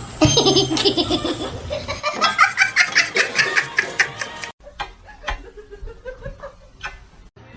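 A person laughing in rapid repeated bursts. The sound cuts off suddenly about halfway through, followed by quieter scattered taps and clicks.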